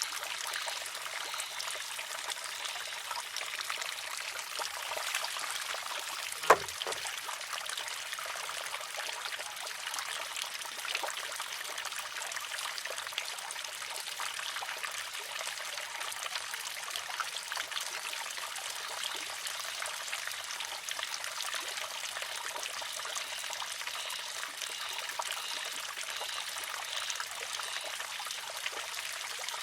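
Water trickling steadily through a wooden shishi-odoshi. About six and a half seconds in, the filled arm tips and strikes its rock once with a single sharp clack.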